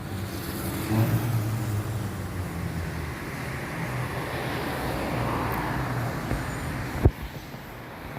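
Street traffic: a car engine running with a low, steady hum and road noise that swells in the middle as a car passes. A single sharp knock comes about seven seconds in.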